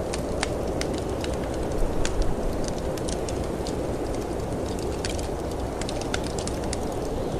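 Wood fire in a fireplace crackling, with irregular sharp pops and snaps, a few louder ones about two seconds in, over a steady low rush of wind.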